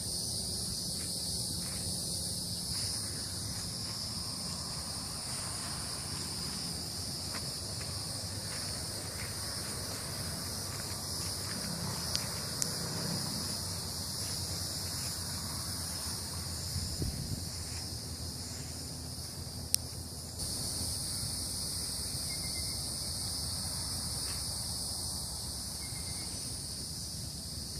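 A steady chorus of insects, an even high-pitched buzz that grows louder about two-thirds of the way through. A single sharp click comes at about the same moment, over a low, even background noise.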